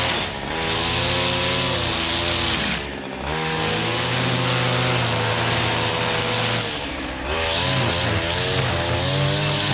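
A small petrol engine on lawn-care equipment running hard, briefly dropping in speed and pitch three times and picking up again each time.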